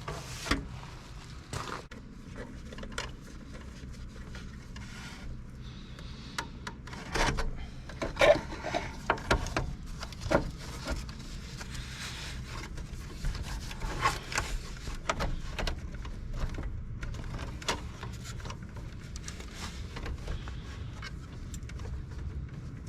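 Hands working with wiring and small parts: irregular rubbing and scraping with scattered clicks and knocks, and no power tool running.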